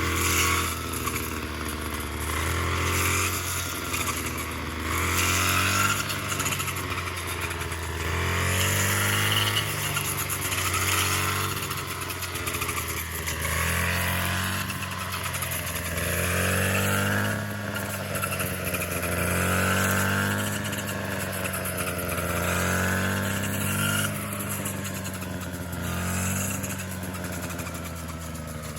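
A small engine running steadily, its speed and loudness rising and falling about every two to three seconds.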